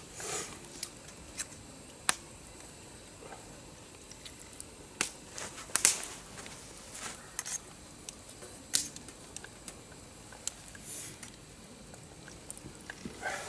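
Campfire crackling, with sharp irregular pops and snaps of burning wood.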